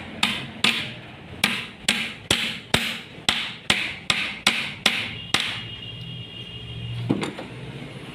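Hammer blows on a manual gearbox part being assembled, struck about two and a half times a second and stopping after about five seconds. A faint ringing follows, with one more blow near the end.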